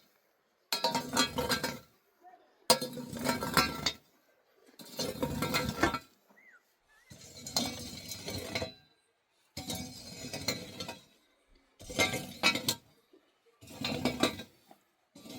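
A metal shovel scooping and scraping dry sheep manure: seven gritty, clinking strokes, about one every two seconds, with short pauses between them.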